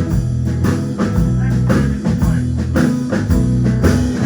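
Band playing a blues song between vocal lines: guitar and bass over a drum kit keeping a steady beat.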